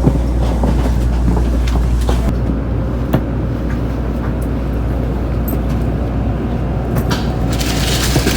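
Steady low rumble of a Tokaido Shinkansen train running, heard inside a passenger car, with a few faint clicks and a hiss that comes up near the end.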